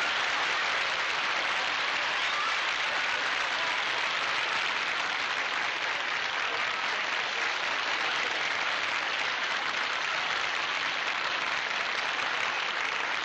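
Studio audience applauding steadily for several seconds, greeting a guest star's entrance.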